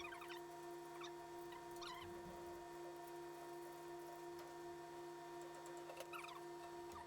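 Faint steady electrical hum with a few short, faint high chirps scattered through it.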